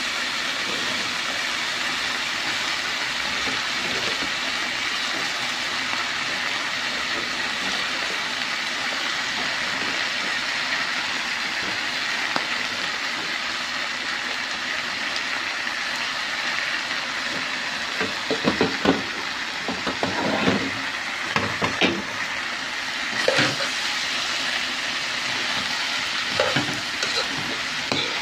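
Shredded cabbage frying in a hot wok, a steady sizzling hiss. From about two-thirds of the way through, a spatula knocks and scrapes against the pan now and then as the cabbage is stirred.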